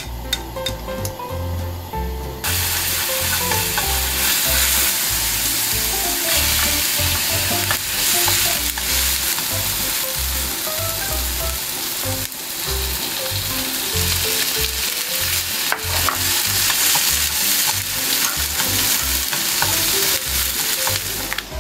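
Minced garlic, then sliced onion and shrimp, sizzling in hot cooking oil in a nonstick frying pan, stirred with wooden chopsticks that click against the pan now and then. The sizzle starts suddenly about two seconds in as the garlic hits the oil.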